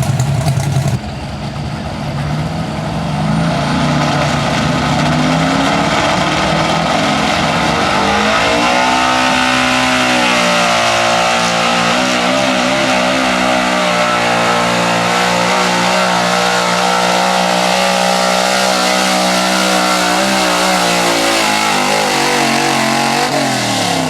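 Big-block pulling truck engine under full load on a sled pull: the revs climb over the first several seconds, hold high and steady, then drop near the end as the throttle comes off.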